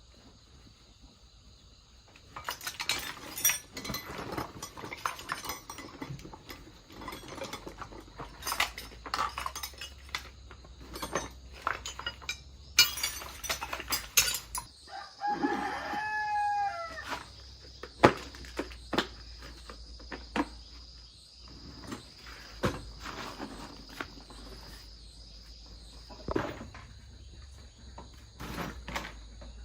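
A rooster crows once, one call of about two seconds about halfway through, among scattered sharp knocks and clatter.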